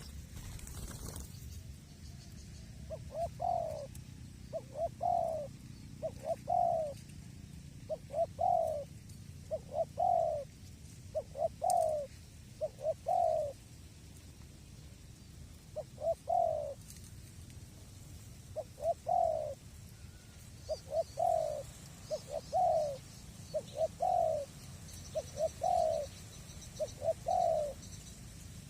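Spotted dove (tekukur) cooing: a long series of short, rising coo phrases repeated about every one to two seconds, starting a couple of seconds in and stopping near the end.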